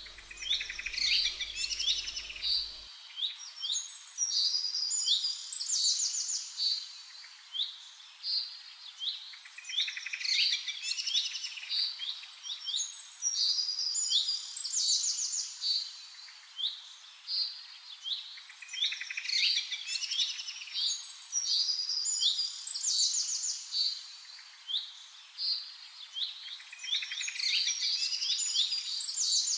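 Birdsong: bursts of high chirps and rapid trills, the same phrase pattern coming back about every nine seconds, as from a looped recording.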